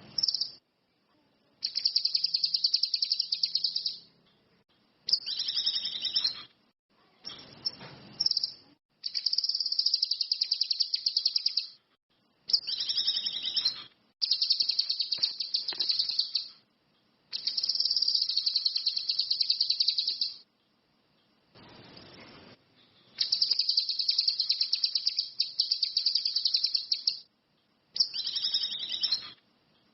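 Cucak kinoi (ranti mas) bird singing: a string of rapid high trills, each lasting one to four seconds, separated by short pauses.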